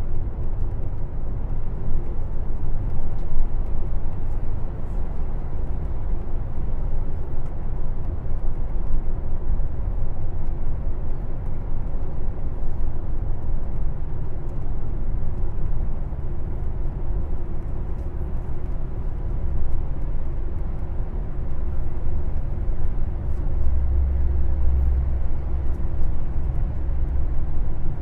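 Airport limousine coach on the move, heard from inside the cabin: a steady low rumble of engine and road noise, with a deeper rumble swelling briefly near the end.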